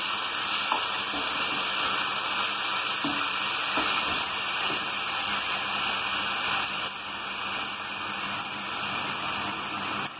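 Jaggery syrup being poured into a hot pan of ripe plantain pieces cooked in ghee, the pan sizzling with a steady hiss that eases a little about seven seconds in.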